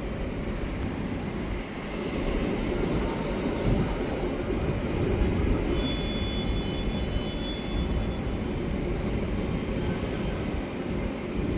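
Intercity train pulling slowly out of the station, a steady low rumble that grows a little louder about two seconds in.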